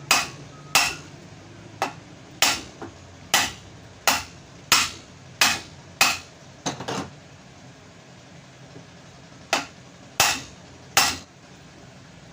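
Sharp knocks of hammering on wood, knocking the back end plate and its new bearing into place on a pedestal fan motor. About a dozen blows come at a steady pace, then a pause, then three more blows near the end.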